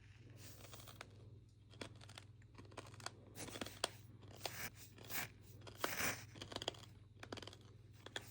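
Sand crunching and crackling in irregular bursts with sharp clicks, busier in the second half, over a steady low hum.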